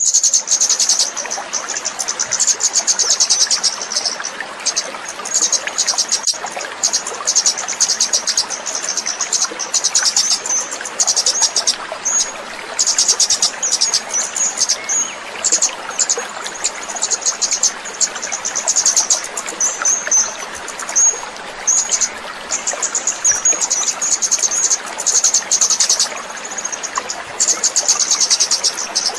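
A small songbird giving rapid, high-pitched buzzy trills in repeated bursts, with short single chirps between them, over a steady background hiss. This is a masteran recording of the kind played to caged songbirds for them to copy.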